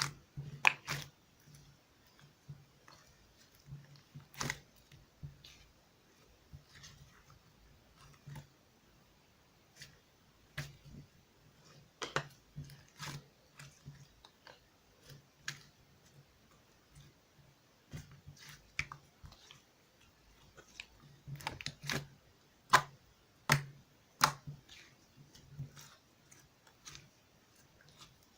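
Chewy, stretchy slime being squished and pressed by hand, giving irregular sticky clicks and pops.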